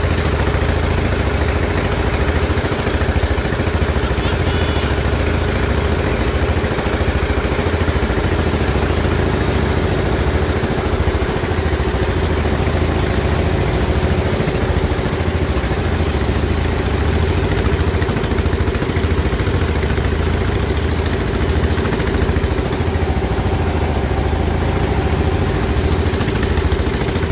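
An engine running steadily at a constant speed, with a strong low drone and no rise or fall in pitch.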